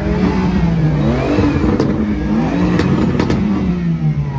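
Performance car engine revving repeatedly, its pitch sweeping up and falling back several times, with a few sharp cracks in the second half.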